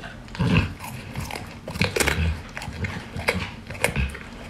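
Pit bull chewing a raw carrot: irregular sharp crunches as it bites and chews.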